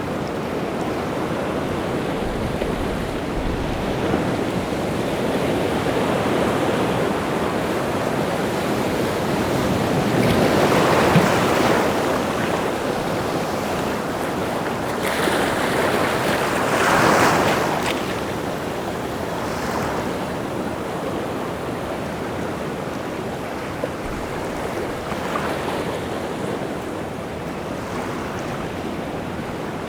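Rough sea surf, waves stirred up by the wind washing continuously. Two bigger waves break and surge, about ten and sixteen seconds in.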